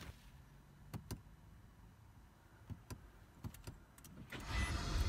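A few light clicks inside a car cabin, then about four seconds in a 2020 Nissan Altima's engine starts and settles into a steady low run, with a brief electronic chime.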